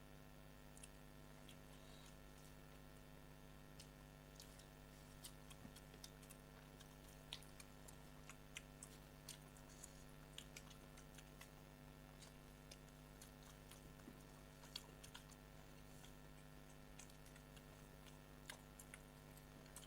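Faint chewing and eating by hand, with many small scattered clicks and mouth sounds, over a steady low electrical hum.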